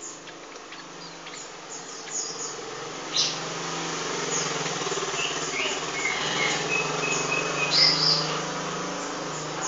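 Small birds chirping: short, scattered high chirps over a steady low hum.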